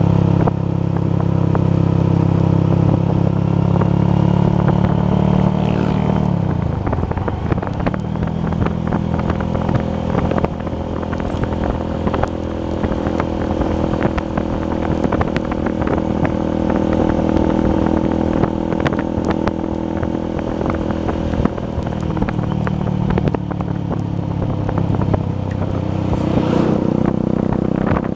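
Honda Verza 150 motorcycle's single-cylinder engine running under way. Its pitch falls sharply about six seconds in as it slows or changes gear, holds steady at cruising speed, then dips once more and rises again near the end.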